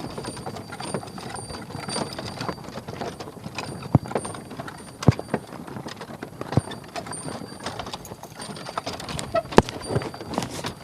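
Horse's hooves clip-clopping as it pulls a wooden cart, with the cart knocking and rattling and a few sharper knocks standing out. A faint high squeak recurs about every half second.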